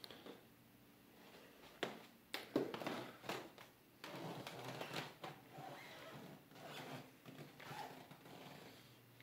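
A few sharp clicks about two seconds in, then a run of irregular rustling and scuffing in a small room.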